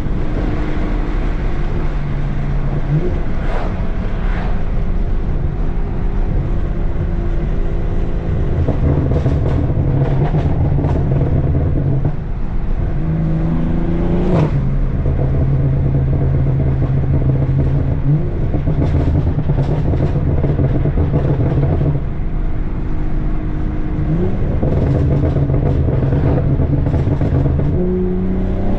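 BMW F30 3 Series with a straight-piped exhaust being driven. The loud exhaust note holds steady, shifting up and down in pitch several times as the engine speeds up and slows.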